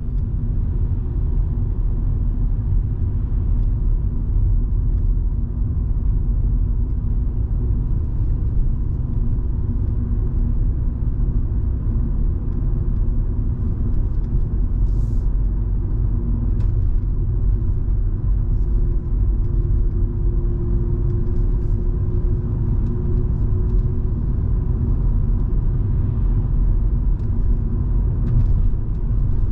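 Cabin sound of a Volvo V70 2.5T with its turbocharged five-cylinder engine on the move: a steady low rumble of engine and road noise with a constant droning hum over it.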